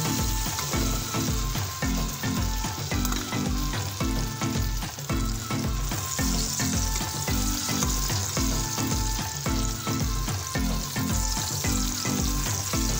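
Grated cassava batter sizzling as it fries in hot cooking oil in a frying pan, while a spoon presses and spreads it. Background music with a steady beat runs underneath.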